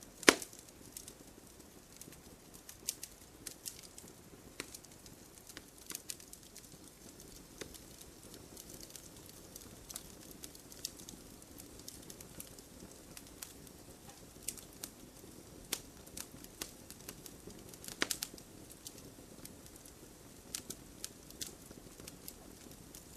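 Wood campfire crackling: irregular sharp pops and snaps over a low, steady hiss. One loud pop comes just after the start, and a cluster of pops about eighteen seconds in.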